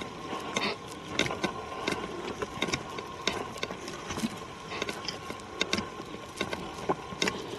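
Footsteps on a forest trail, with twigs and leaf litter crackling and snapping irregularly underfoot. A few short breathy puffs, one about half a second in, are what the uploader takes for sniffing. A faint steady high tone runs beneath.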